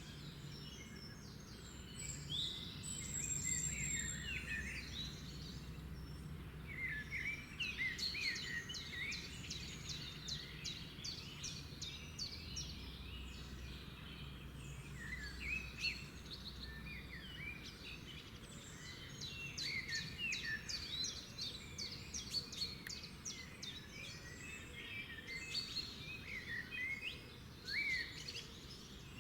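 Several wild birds singing and calling, overlapping chirps and whistles with runs of fast repeated trill notes, over a steady low background rumble.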